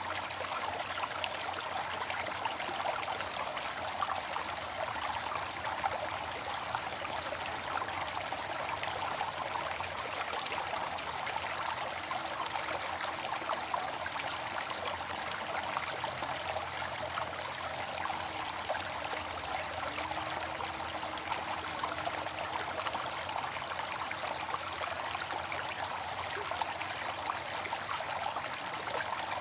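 Water fountain running, a steady splashing and trickling of falling water.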